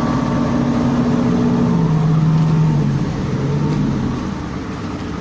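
Sumitomo SH210-5 excavator's diesel engine running, its speed stepping down twice from high revs to lower revs, then running a little quieter near the end.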